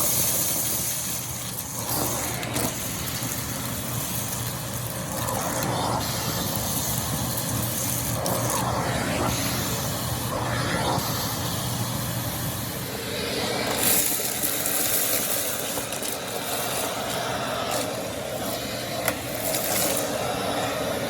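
Aspiron canister vacuum cleaner running steadily with its suction on, vacuuming up a mess. Its sound shifts now and then, most clearly about two-thirds of the way through.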